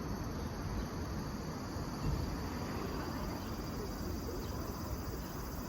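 Insects chirping steadily in a high, even chorus over a low, uneven rumble on the microphone.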